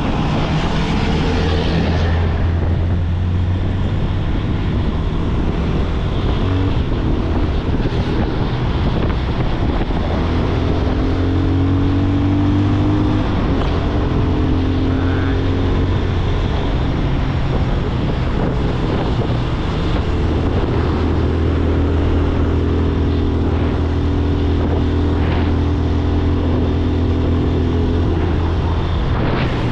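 Yamaha FZ25 motorcycle's single-cylinder engine running on the move, its revs rising and settling a few times, over a steady rush of road and wind noise.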